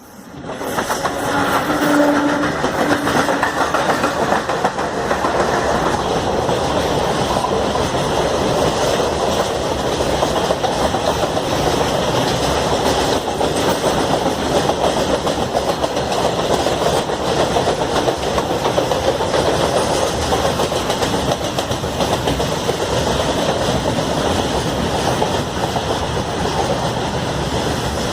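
Train wheels clattering over the rails in a loud, steady rumble, heard from aboard a moving passenger train. A short pitched tone sounds about two seconds in.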